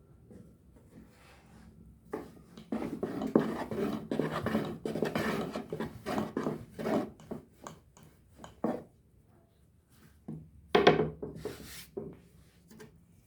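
Kitchen handling sounds: a run of rubbing and light knocks from wood and dishes, then a louder knock or clatter about eleven seconds in.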